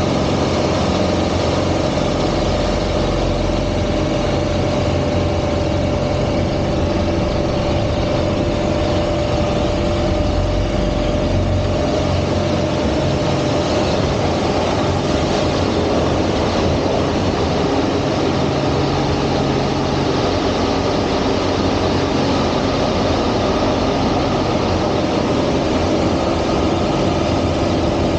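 Aerobatic plane's piston engine and propeller running steadily at high power, with a constant drone and a steady whine-like tone.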